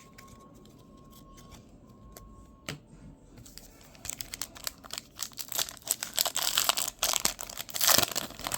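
Plastic wrapper of a trading card pack being torn open and crinkled. It starts about a third of the way in as dense crackling and is loudest near the end.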